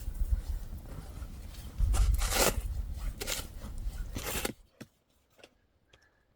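Rustling and scraping over a low rumble, with two louder swishes about two and a half and four seconds in. Then it drops suddenly to near silence, broken by a few faint clicks.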